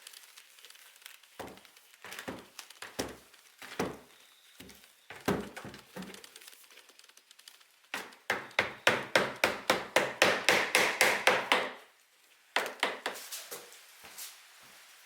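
Kitchen knife chopping on a wooden cutting board: a few separate cuts, then a fast steady run of about five chops a second lasting some four seconds, then a few more cuts.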